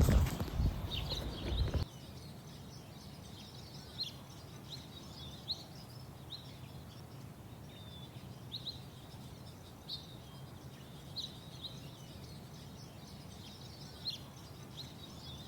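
Small songbirds chirping: short, high chirps repeated about once a second over a faint steady background. For the first two seconds there is louder handling and rustling noise, which cuts off suddenly.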